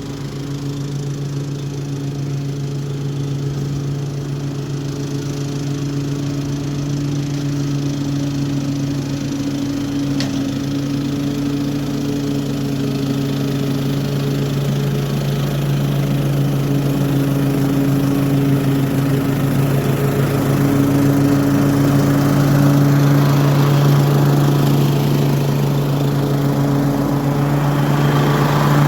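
Toro HDX 30-inch self-propelled mulching mower running steadily under mowing load, its engine note holding even while the sound grows gradually louder.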